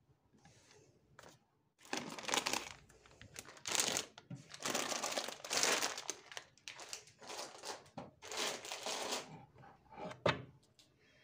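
Packaging crinkling and rustling in a run of bursts as it is handled, then a single sharp knock near the end.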